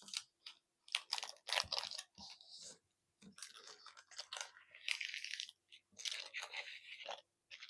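Refrigerated pie-crust packaging being handled: plastic and paper wrapping crinkling and rustling in short, irregular bursts, with some tearing.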